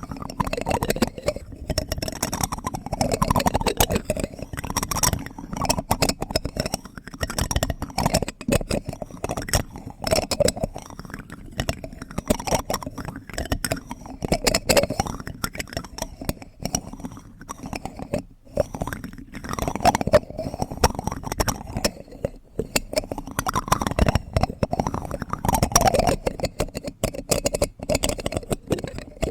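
Close-miked plastic spoon ASMR: a steady, dense run of small clicks and scrapes mixed with wet, mouthy sounds.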